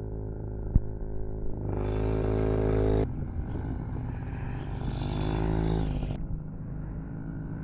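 Yamaha PW50 mini dirt bike's 50cc two-stroke single running, the revs rising and easing off as it is ridden. The sound changes abruptly twice, and there is a sharp click a little under a second in.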